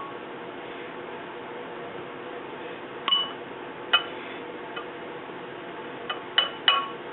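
A utensil clinking against a bowl while blackened chicken rub is worked over oiled chicken breasts. There is a single clink about three seconds in, another about a second later, then three quick clinks near the end, each with a short ring.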